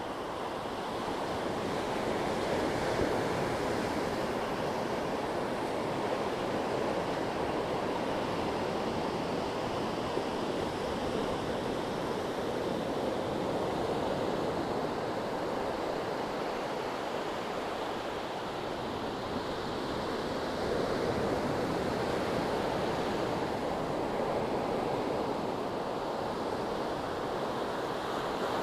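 Sea waves washing onto the shore in a continuous rush of surf, swelling slowly and easing off.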